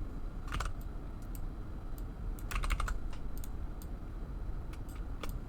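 Computer keyboard keys clicking in scattered presses, with a quick run of several keystrokes a little past the middle, over a steady low hum.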